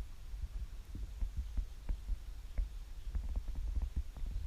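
Low wind rumble on the microphone with many small, irregular knocks and taps, as from a camera carried on a moving bicycle.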